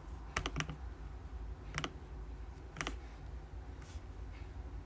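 A few sharp clicks on a computer keyboard or mouse, a quick cluster near the start and then single clicks about a second apart, as a randomizer is run on the computer.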